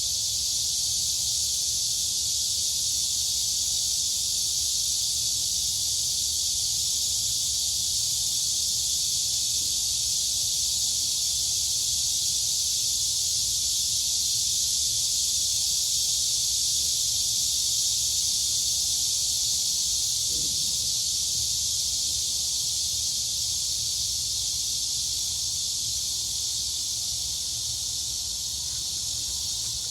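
Chorus of crickets and cicadas: a steady, unbroken high-pitched buzzing drone.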